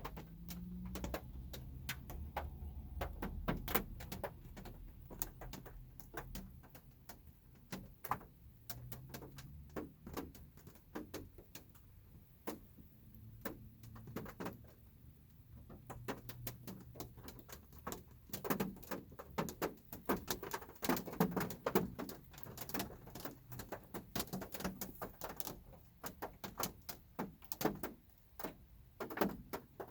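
Light rain, drops tapping irregularly on a car's roof and windows, heard from inside the car; the taps come thicker about two-thirds of the way through. A low rumble sits underneath, strongest in the first few seconds.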